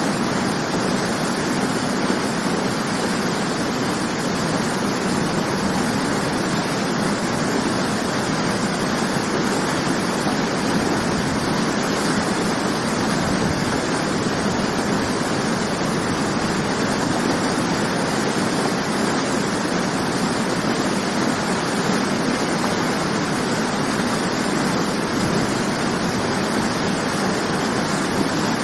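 Natural waterfall: water falling and splashing in a steady, dense rush without let-up.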